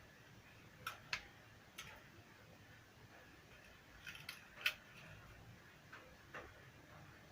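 Scattered small clicks and taps of handling work on the speaker and tools, about eight in all, with the sharpest click about four and a half seconds in, over faint room noise.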